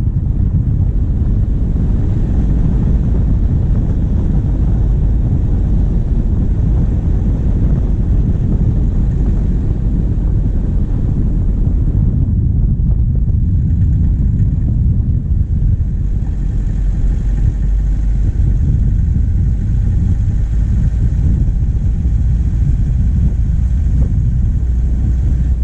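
Steady low rumble of a diesel vehicle driving, its engine heard through a bonnet-mounted camera along with wind buffeting the microphone.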